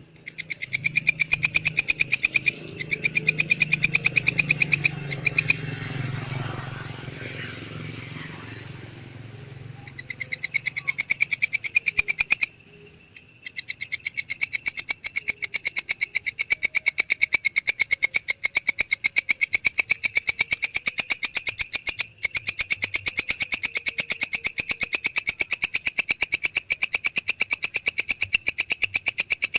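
Recorded animal call: a fast, even run of high clicking pulses, many a second, broken off briefly a few times and weaker for a few seconds in the first third.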